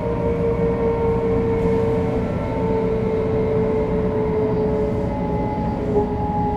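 500-series Shinkansen running: the Toshiba GTO-VVVF inverter and traction motors whine over a steady running rumble. The whine drifts slowly down in pitch with small steps, as the train slows on the approach to a station.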